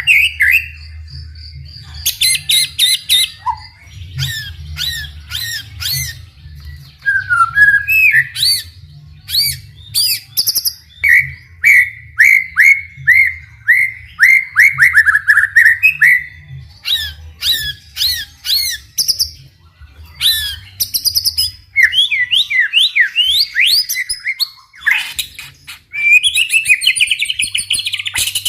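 White-rumped shama singing a long, varied song: fast trills, slurred rising and falling whistles and runs of repeated notes follow one another with hardly a pause.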